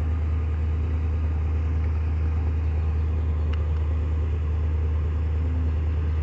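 Car engine idling steadily: a constant low rumble.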